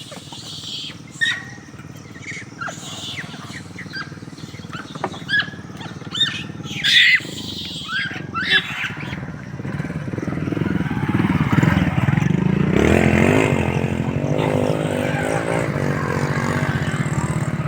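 Short, sharp high-pitched calls come and go through the first half. From about ten seconds in, a motor vehicle engine grows louder, its pitch wavering, and runs loud to the end.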